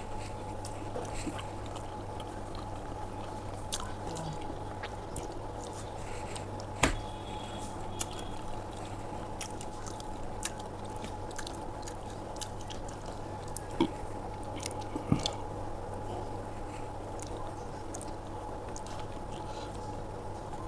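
A person chewing and eating aloo paratha with dahi close to the microphone: soft, wet mouth sounds and small clicks, with a few sharper clicks about a third of the way in and twice more past the middle. A steady low hum runs underneath.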